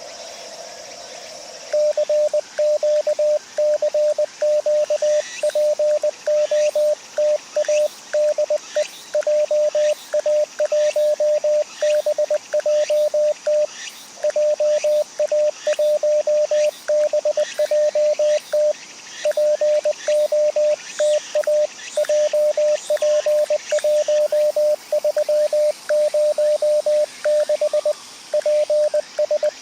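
Morse code from an amateur radio transceiver: a single steady tone keyed on and off in dots and dashes, starting about two seconds in, over receiver hiss.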